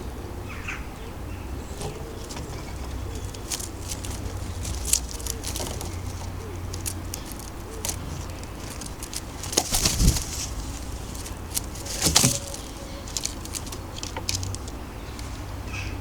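Wood pigeon's wings flapping, with two louder bursts of wing clatter about ten and twelve seconds in, among many light taps and clicks, over a steady low rumble.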